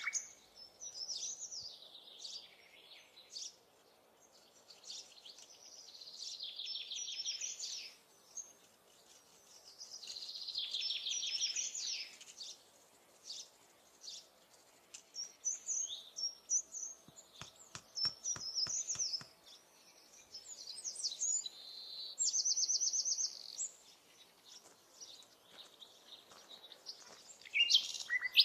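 Songbirds singing in repeated high, trilling phrases a few seconds long, with short pauses between them. About two-thirds of the way through there is a brief run of light clicks or taps.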